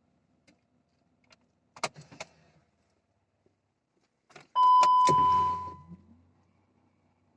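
Car key clicking and jangling at the ignition, then a loud single-pitched electronic chime with a click. A brief low hum follows as the BMW X5 E53's ignition is switched on ahead of a cold start.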